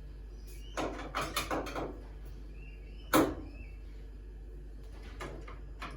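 Clicks and small knocks of a Phillips screwdriver working screws out of a washing machine's plastic top panel, with a sharper single knock about three seconds in.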